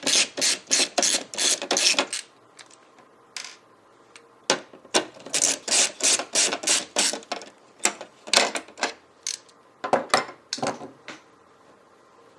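Runs of rapid mechanical clicking, about five clicks a second, in four bursts with short pauses between, from fitting the second M.2 NVMe SSD into its slot on the motherboard.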